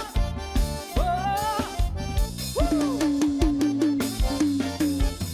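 Live band music in a short instrumental break between song sections: a steady drum-kit beat and bass line, a run of short repeated notes in the second half, and a brief sung phrase about a second in.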